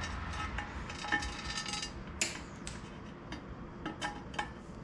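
Light metallic clinks and taps of a repair rod worked against an aluminum wheel rim, about a dozen short strikes, some ringing briefly. The rod is not bonding to the rim.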